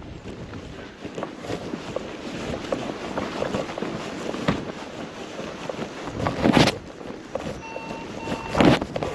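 Strong wind rushing over the microphone, with two louder buffeting gusts, one past the middle and one near the end. Two short faint beeps come just before the last gust.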